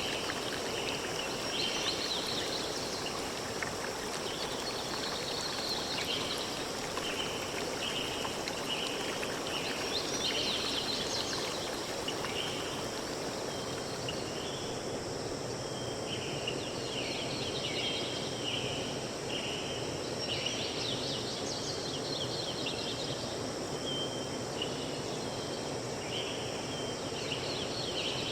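Forest ambience: a steady rush of flowing stream water, with birds chirping in short bursts every few seconds and a short, high call repeating about once or twice a second.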